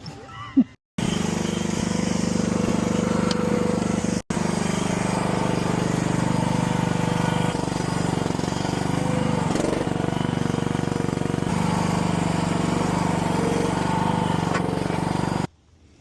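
An engine running steadily at an even speed, starting abruptly, breaking off for an instant about four seconds in, and cutting off sharply near the end.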